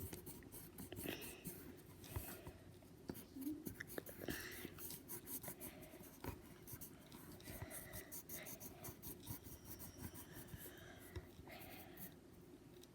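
Faint scratching of a pink colouring tool on paper, many quick back-and-forth strokes as a drawing is coloured in.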